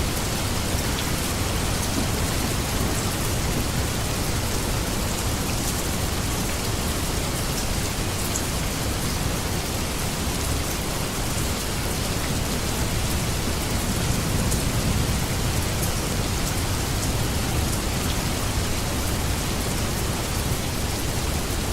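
Steady rain falling, a dense even hiss, with a low rumble that swells about two-thirds of the way through.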